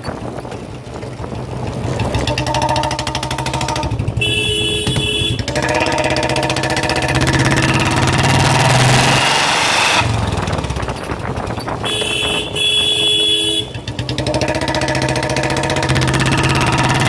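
Royal Enfield single-cylinder motorcycle engine running through a free-flow silencer and bend pipe, its exhaust note rising and falling as it is revved.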